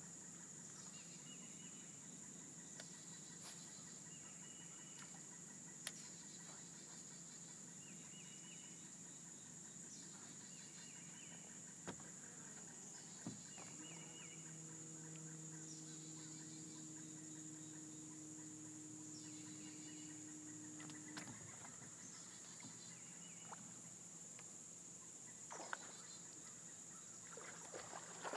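Quiet lakeside ambience: a bird repeats a short, falling call every two to three seconds over a steady high whine, with a faint distant motor hum in the middle stretch.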